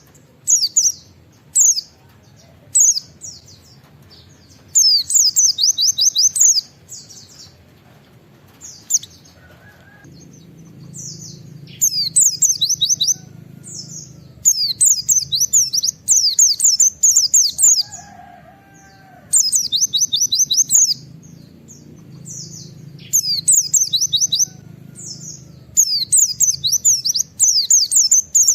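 White-eye (pleci) singing its rapid 'wit-wit' song in bursts of quick, high, sweeping notes. Each burst lasts one to two seconds and they repeat every few seconds.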